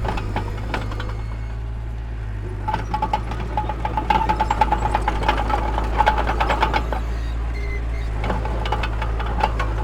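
Heavy diesel earthmoving machinery running with a steady low rumble, overlaid by rapid metallic clanking and rattling that is loudest through the middle few seconds.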